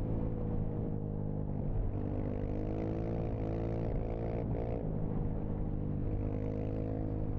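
Dirt bike engine running steadily under way, its pitch dipping and recovering slightly with small throttle changes about halfway through.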